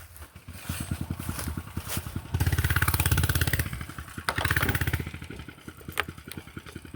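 A mini bike's small engine running with an uneven idle, revved up twice for a second or so each, about two seconds in and again near the middle; a sharp click near the end.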